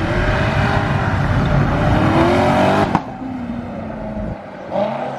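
Car engine revving hard as the car accelerates away, its pitch climbing for about three seconds before it cuts off abruptly. Quieter engine sound follows, falling and then rising again near the end.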